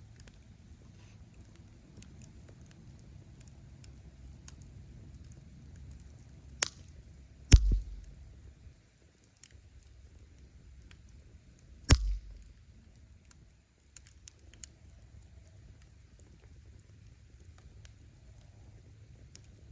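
Wood fire burning with a low rumble and faint, scattered crackling. A small snap is followed right after by a loud pop of firewood about a third of the way in, and another loud pop comes just past the middle.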